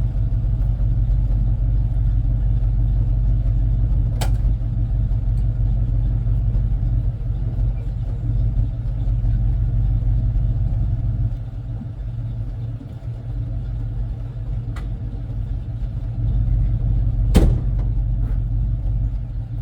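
1984 tow truck's engine idling steadily, its level dropping for a few seconds past the middle. Three sharp metallic knocks come over it, the loudest near the end.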